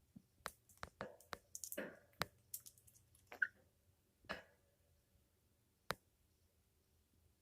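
African grey parrot preening: scattered sharp beak clicks and short rustles, with one brief high note about three and a half seconds in.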